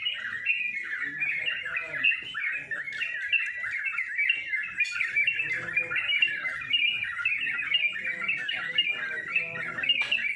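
Several caged yellow-vented bulbuls singing at once, a dense unbroken chorus of quick, chattering warbled phrases, with faint human voices underneath.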